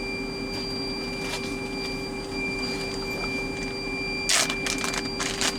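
Plastic meat packaging crinkling and rustling in a short flurry about four seconds in, over a steady electrical hum.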